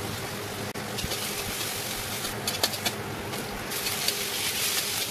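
Onions frying and sizzling in hot oil in a metal kadai, with a few sharp clicks of a spatula on the pan about two and a half seconds in. The sizzle grows louder near the end as raw chicken is stirred in.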